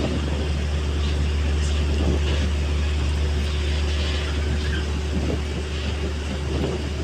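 A train at the station platform running with a steady low rumble and a faint steady hum.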